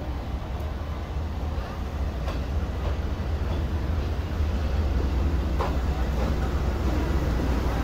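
Passenger train rolling slowly along the platform: a steady low rumble that grows gradually louder, with a few short clanks.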